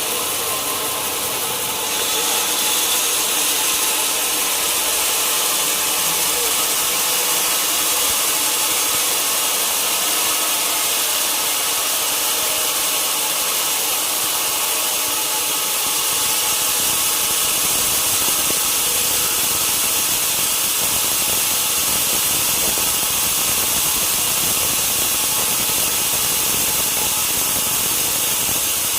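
Sawmill saw running steadily as it cuts lengthwise through a large log. It gets louder about two seconds in and fuller and deeper about halfway through.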